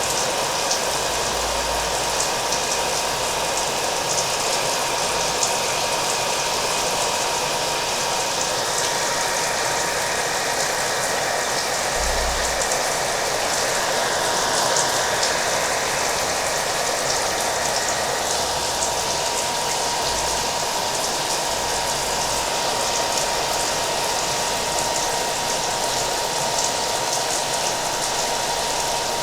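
A hair dryer running steadily with a thin, even motor whine, mixed with rain pattering down.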